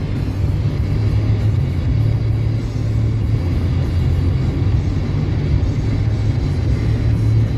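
Steady low road and engine rumble inside a vehicle cabin at highway speed, with a car radio playing music over it.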